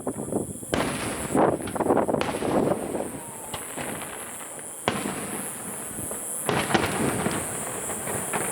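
Aerial fireworks shells bursting one after another: a string of sharp bangs with crackling between them, one especially sharp report about five seconds in.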